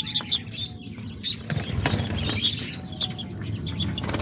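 Lovebirds flapping their wings as they fly about the cage. Quick high chirps come near the start.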